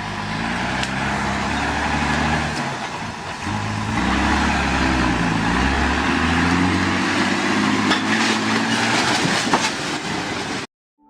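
Truck engine running under road noise, its pitch shifting up and down several times, with a few sharp knocks near the end; the sound cuts off abruptly shortly before the end.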